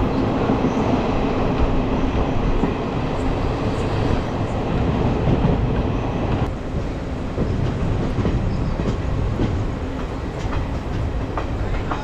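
Jan Shatabdi Express passenger train running on the rails: a steady rumble and rattle of the moving coach. About halfway through, the higher hiss drops away suddenly, and faint clicks follow near the end.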